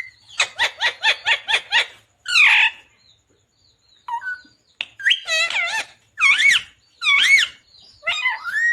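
Ringneck parrot (rose-ringed parakeet) calling: a fast run of about eight short squawks in the first two seconds, then a single harsher call. After a brief quieter stretch come several loud, wavering calls that bend up and down in pitch.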